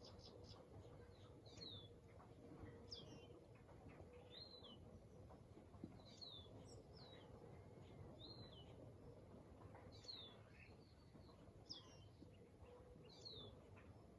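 Faint bird call: one bird repeating a short, high, down-slurred note about every one and a half seconds, over a low, steady background hum.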